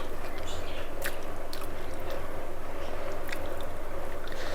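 Chewing and soft, wet squishing of a mouthful of rice and chicken curry, with a few faint clicks scattered through, over a steady low hum.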